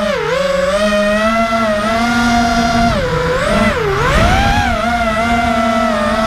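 FPV racing quadcopter's Emax Red Bottom brushless motors whining in flight. The pitch rises and falls with the throttle, dipping sharply and climbing back just after the start and again at about three and four seconds in.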